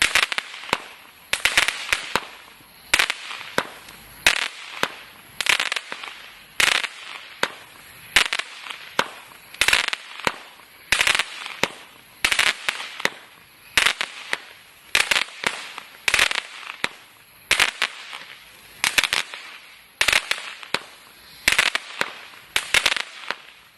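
'Crackling Wood' firework firing a steady series of shots, about one every second to second and a half, each followed by a short burst of dense crackling.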